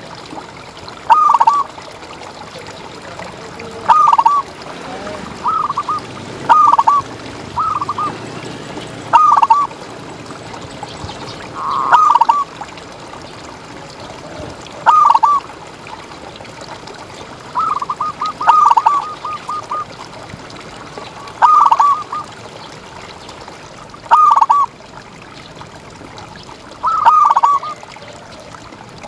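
Zebra dove (perkutut) cooing: about a dozen short phrases of quick, rolling notes, one every two to three seconds, with one longer stuttering run of notes about two-thirds of the way through.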